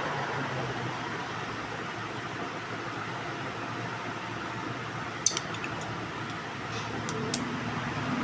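Steady fan-like background noise, with a sharp click about five seconds in and two lighter clicks near the end, as the metal parts of an opened e-bike hub motor are handled.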